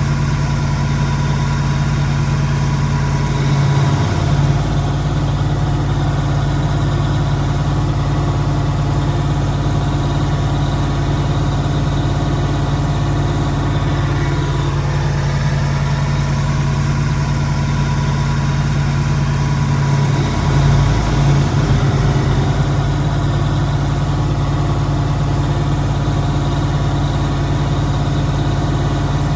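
Massey Ferguson V8 tractor engine running steadily, its note briefly shifting and swelling a little about four seconds in and again around twenty seconds in.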